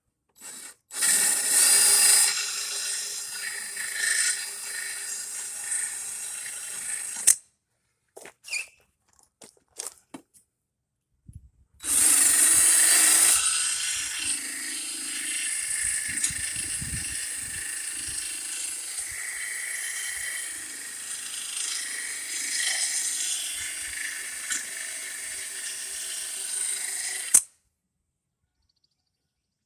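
Power drill spinning a sharpening stone against the edge of a lawn mower blade, in two runs: one of about six seconds starting about a second in, and a longer one of about fifteen seconds starting about twelve seconds in. Each run starts with its harshest grinding hiss, then settles into a steadier whirring grind.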